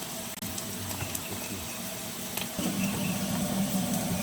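Oil sizzling steadily in a pan as food fries, with faint crackles. A low hum comes in about two and a half seconds in.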